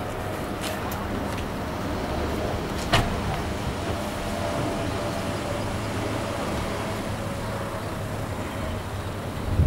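Car engines idling steadily, a low hum under an even outdoor noise, with a single sharp knock about three seconds in.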